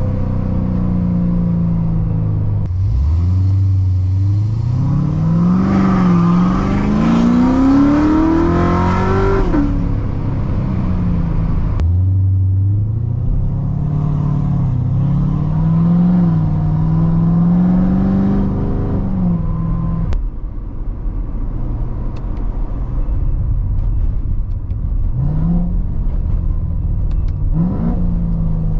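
Supercharged 6.2-litre LT4 V8 of a 2016 Corvette C7 Z06 with long-tube headers, X-pipe and straight pipes, under hard acceleration. The pitch climbs for several seconds, dips once as it shifts, and drops around ten seconds in. It pulls again under throttle for a few seconds, then settles to a lower steady note with two short throttle blips near the end.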